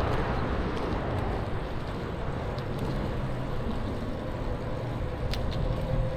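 Steady ride noise from an e-bike rolling along a paved path: wind rush and tyre rumble, with a couple of faint ticks about five seconds in.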